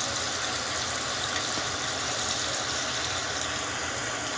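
Water running steadily into the tub of a portable washing machine as it fills for the rinse, a constant hiss.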